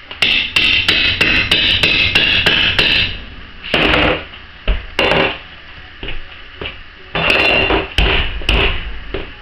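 Hammer tapping at a laminate floor plank being worked loose: a quick run of sharp knocks for about three seconds, then scattered single knocks with a couple of short scraping bursts.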